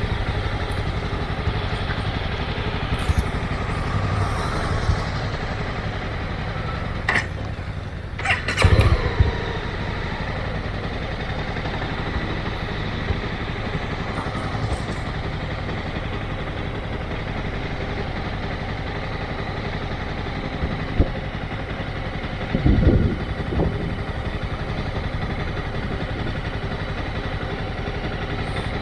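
Motorcycle engine running at low speed, steady, with two short louder bursts, about nine seconds in and again near 23 seconds.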